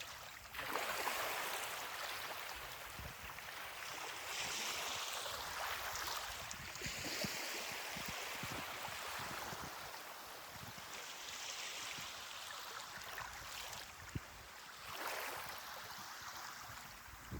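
Ocean surf on a beach: a wave breaks about half a second in and its wash runs on, and another wave surges in near the end.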